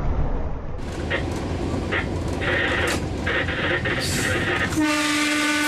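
Rough outdoor noise with several short bursts, then about five seconds in a locomotive horn starts and holds one steady chord.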